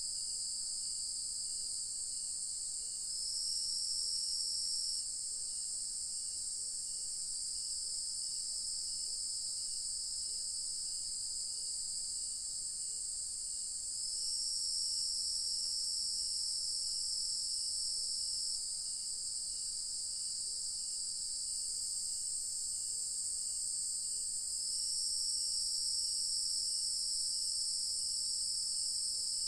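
Dusk chorus of insects: a dense, steady, high-pitched shrilling. One layer swells louder three times for a few seconds each. Beneath it a fainter lower chirp repeats at an even pace.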